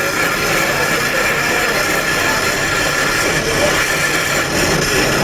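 A power tool or machine running steadily, with a constant whine over dense noise, while stone is being worked.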